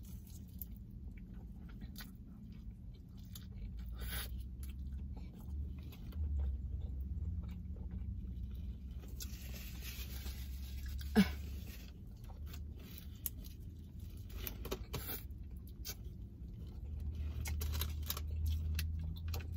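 A person biting and chewing a mouthful of foil-wrapped burrito, with scattered small rustles and crinkles of the foil and paper wrapper. A short sharp sound stands out about eleven seconds in.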